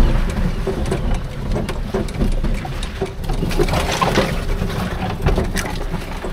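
Old two-wheel-drive golf cart driving along, a steady low rumble with scattered rattles and knocks.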